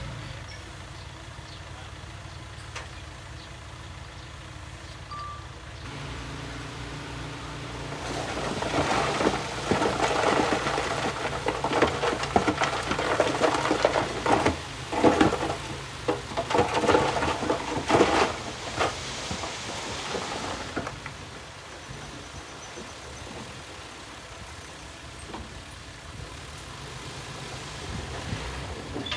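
Heavy diesel construction machinery running steadily. About eight seconds in, a louder stretch of irregular clattering and rumbling runs for roughly thirteen seconds, then it settles back to the steady engine hum.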